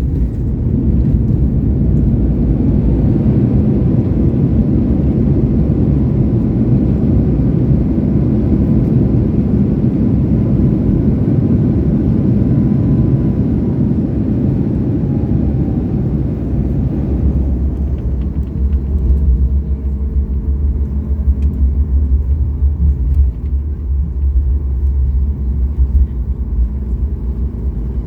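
Cabin noise of a Boeing 737 MAX 8 rolling down the runway after touchdown: a loud, steady rumble of its engines and wheels that eases after about seventeen seconds into a lower, quieter rumble as the jet slows.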